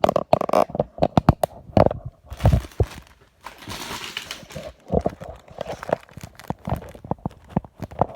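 Handling noise from the camera being repositioned: an irregular run of sharp knocks and clunks, with a stretch of rubbing or rustling about three and a half seconds in.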